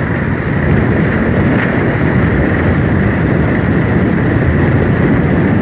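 Steady, loud rushing noise of a moving road vehicle, with wind and road noise on the microphone.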